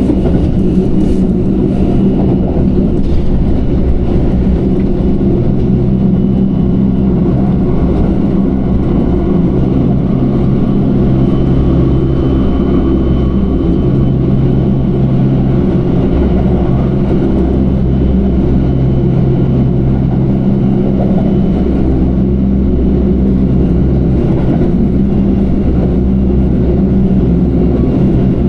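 Passenger train running steadily along the line: a continuous low rumble with a steady hum underneath.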